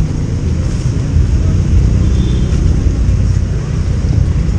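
Steady low rumble of road vehicles and traffic.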